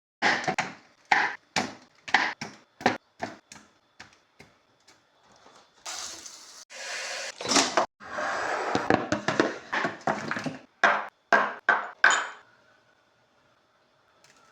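A knife chopping on a wooden cutting board: a string of sharp knocks, about two a second. A few seconds of loud hissing noise break in around the middle, and a last quick run of chops comes near the end.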